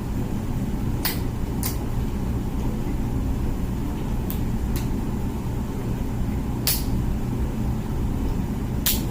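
Comfee dishwasher running its wash cycle: a steady low hum of the pump and water spraying inside the tub, with a few sharp clicks now and then.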